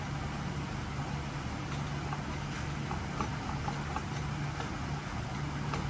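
A steady low hum with faint, scattered light ticks.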